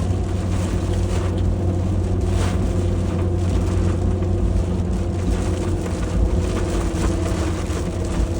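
Steady drone of a car heard from inside the cabin, a low engine and road hum with a noisy wash over it, in heavy rain.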